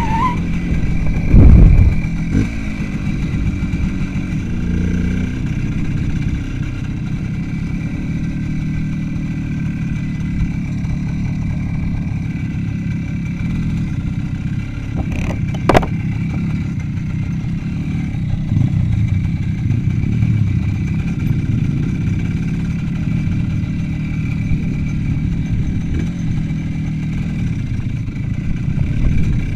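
Motorcycle engine running as the bike rides along, heard from a helmet-mounted camera. There is a loud thump about a second and a half in, and a sharp click about halfway through.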